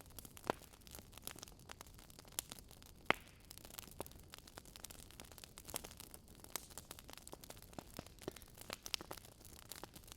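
Wood fire in a fireplace crackling, with irregular sharp pops over a faint hiss; the loudest pops come about half a second and three seconds in.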